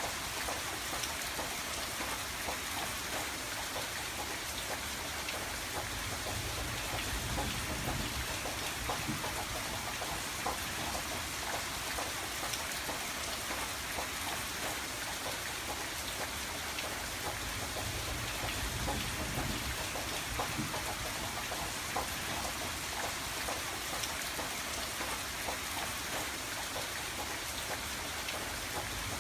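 Steady rain falling on a window pane, a constant hiss with many small drop taps.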